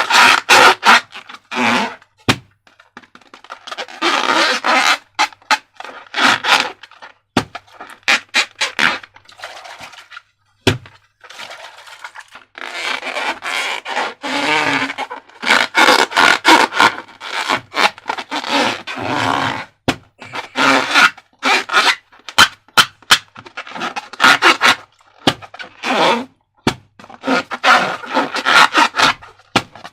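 Slime being handled and worked: sticky squishing and scraping in stretches of a second or two, broken by many sharp clicks and cracks at irregular intervals.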